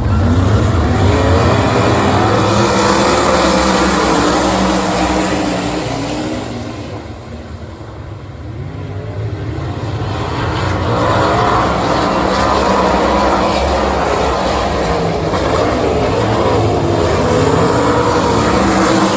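Winged 410 sprint car engines at full throttle on the track, pitch rising and falling with the throttle. The sound fades from about six seconds in and builds back up a few seconds later.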